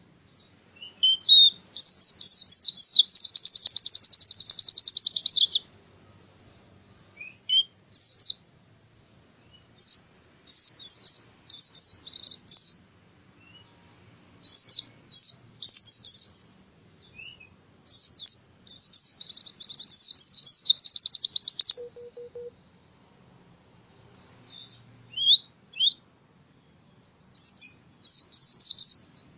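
White-eye (pleci) in full song: high-pitched phrases of quick chirps and notes, broken by short pauses. Two long rapid trills, one of about three seconds near the start and another about two-thirds of the way through.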